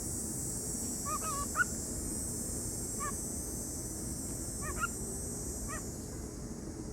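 Cockatiel giving short chirping calls, about five, some with an upward flick, over the steady high buzzing drone of cicadas, which thins out near the end.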